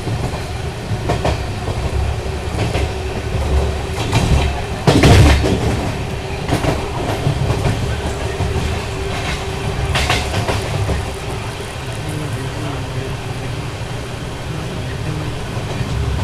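Express passenger train running along the track: a steady rumble of coach wheels on the rails, with sharp clanks over rail joints, the loudest about five seconds in and another around ten seconds.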